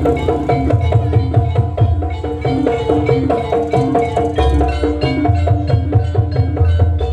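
Live jaranan gamelan music: quick, repeating interlocking notes on bronze gong-chimes or metallophones over a steady pulse of hand drums.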